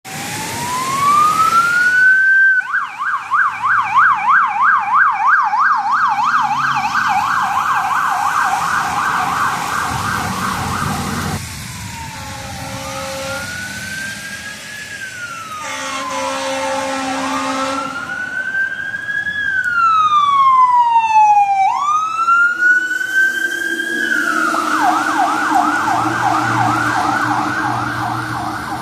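Electronic sirens of fire apparatus responding: a rising wail switches to a fast yelp of about three sweeps a second, drops back to slow rising and falling wails with a second siren's sweeps overlapping near the middle, then returns to the yelp near the end. A steady low horn-like tone sounds briefly twice in the middle.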